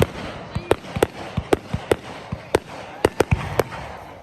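Fireworks going off: a rapid, irregular string of sharp bangs and cracks, about a dozen in four seconds, with smaller pops between them.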